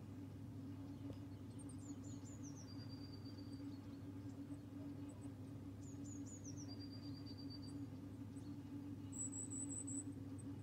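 A songbird sings the same short phrase twice, about five seconds apart: a quick high jingle, a run of falling notes, then one thin held note. A short high trill comes near the end, over a steady low hum.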